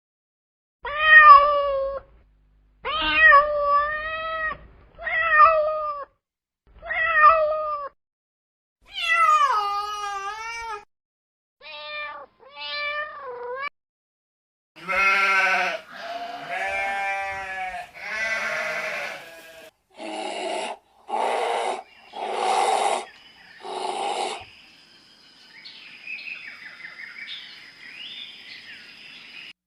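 A string of different animal calls one after another, opening with four cat meows. Further calls of other animals follow, then four rough, noisy calls, and near the end a steady high whine with small chirping sounds.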